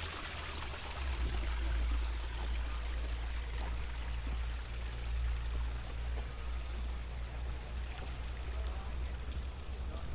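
Small waterfall at a pond's edge, a light flow of water spilling over it and splashing steadily, with a steady low rumble underneath.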